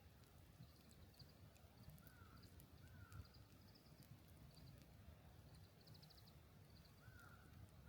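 Near silence: a faint low rumble, with four faint short animal calls that each rise and then fall, two close together early on and two more near the end.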